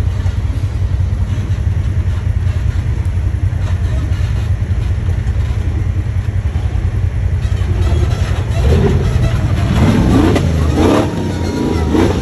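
Honda Pioneer 1000 side-by-side's engine running steadily under way along a trail, a low drone, with the pitch rising and falling in the last few seconds as the throttle changes.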